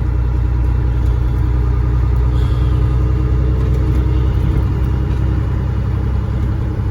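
Caterpillar 3406E inline-six diesel of a Freightliner FLD120 semi truck running steadily under way, a deep, even drone heard from inside the cab.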